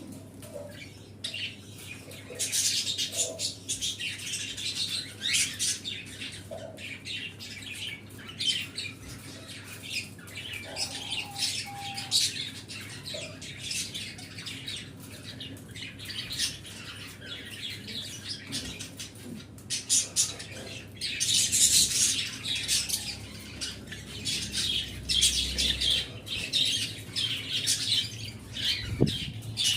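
A flock of small caged pet birds chirping and squawking, with many short high calls overlapping without pause and growing busiest about two-thirds of the way through.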